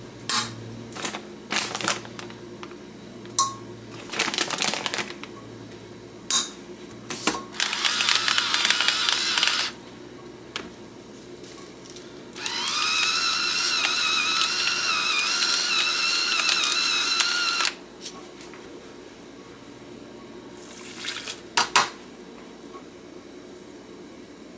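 Kitchen handling sounds: a series of knocks and clicks, a couple of seconds of rustling or rattling noise, then a small electric kitchen appliance motor that whines up to speed and runs steadily for about five seconds before cutting off. A few more clicks follow near the end.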